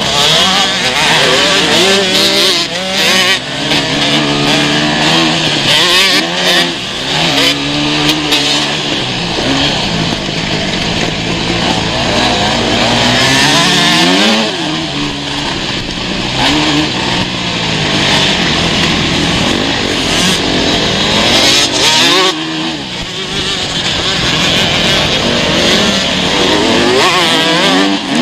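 Several motocross bikes running on the track, their engines revving up and dropping back again and again as they accelerate and shift, the notes overlapping.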